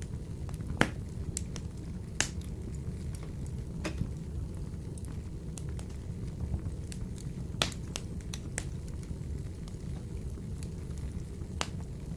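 Wood fire burning in a wood-burning stove: a steady low rumble of flame with scattered sharp crackles and pops from the burning logs, the loudest pop about a second in.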